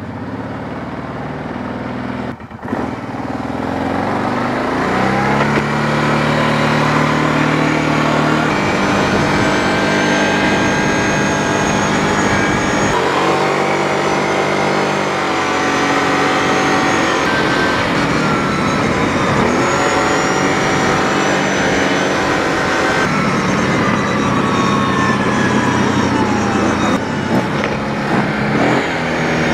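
Kawasaki motorcycle engine running under way, its pitch climbing in steps and dropping back again and again as it accelerates and shifts through the gears.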